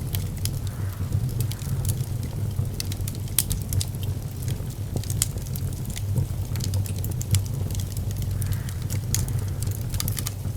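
Fire burning in a fireplace, popping and crackling irregularly over a steady low rumble of flame.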